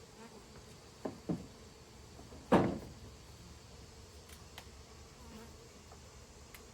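Honey bees buzzing steadily around an open hive. Two light knocks come about a second in, then one loud thump soon after.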